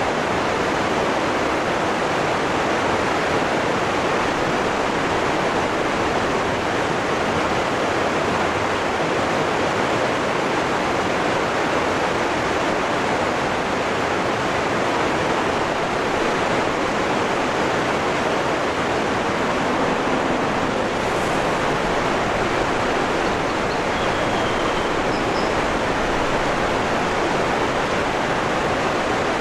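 Waterfall rushing: a steady, dense roar of falling water. A few faint, brief high chirps sound over it about two-thirds of the way through.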